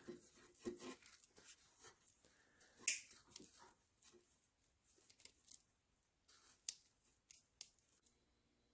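Faint scattered clicks and light rustles of small electrical terminals and wires being handled, with the sharpest click about three seconds in.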